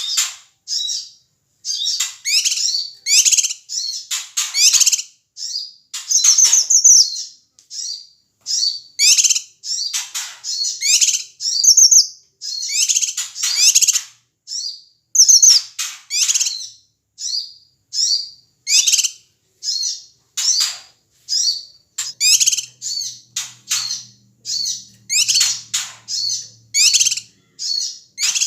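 Cucak kinoi (a bulbul kept as a songbird) giving agitated, noisy calls: rapid strings of short, harsh chattering notes, several a second, with brief pauses between bursts.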